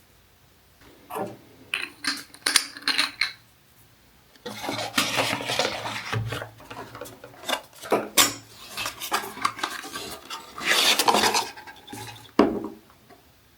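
Skincare bottles, jars and their packaging being handled: a run of small clicks and knocks, then longer stretches of rustling broken by sharp clicks.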